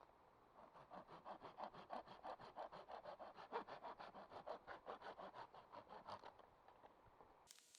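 Hand saw cutting through wood in quick, even back-and-forth strokes, about five a second, stopping about six seconds in. A brief rustle follows near the end.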